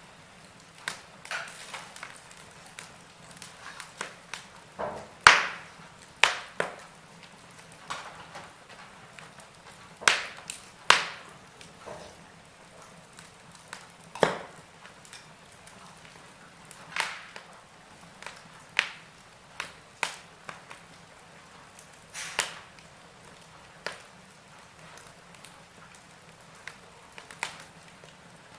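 Wood fire in a fireplace crackling, with irregular sharp pops over a faint steady hiss; the loudest pops come about five, eleven and fourteen seconds in.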